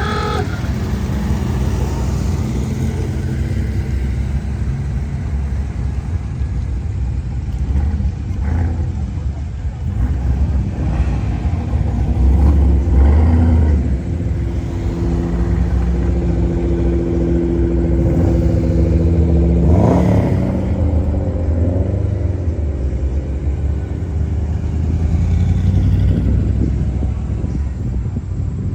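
Car engine running loud with a deep, steady rumble; its revs shift briefly about two-thirds of the way through.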